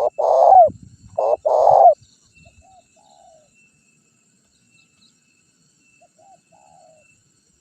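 Spotted dove (tekukur) cooing: the loud, low coos ending a song phrase in the first two seconds, then only a few faint short notes.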